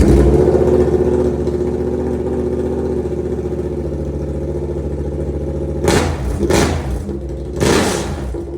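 Yamaha R7's 689 cc parallel-twin engine idling with its exhaust open, the muffler removed, giving a loud, too-loud note. It is blipped three times in quick succession near the end.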